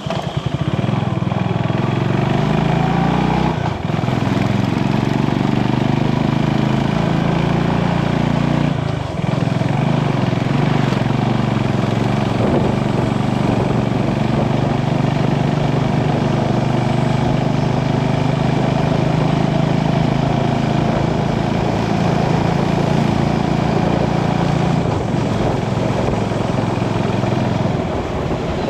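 Motorcycle engine running steadily while riding, its note breaking briefly about four and nine seconds in.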